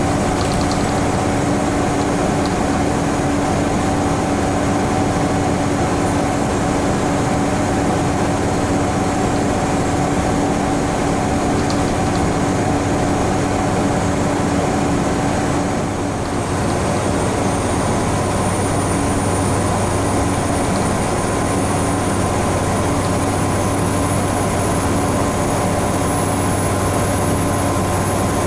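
Scania N94UB Omnicity bus engine and drivetrain heard from inside the cabin, running steadily under way with road noise. About halfway through the sound dips briefly, and afterwards a faint high whine slowly rises.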